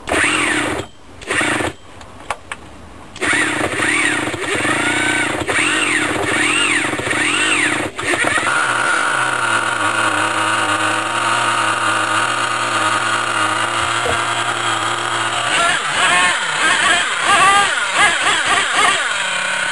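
Small nitro-fuelled glow engine of an RC monster truck being started: two short bursts of cranking in the first couple of seconds, then it catches about three seconds in and keeps running with a high buzz. Its pitch rises and falls in blips of throttle, holds steady in the middle, and blips up and down again near the end.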